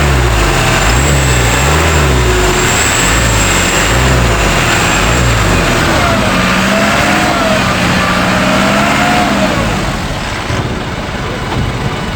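Heavy truck engine running under load, its pitch swinging up and down in repeated surges about once a second for the first five seconds. A wavering higher whine follows for a few seconds before the sound eases slightly near the end.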